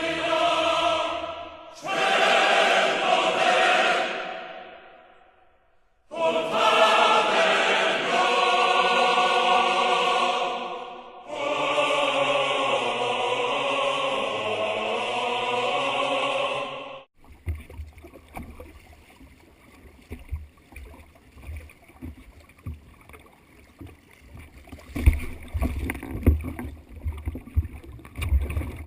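Choral music in long held chords, in several phrases with a brief break, stops about 17 seconds in. After it comes a much quieter, uneven low rumble with scattered knocks.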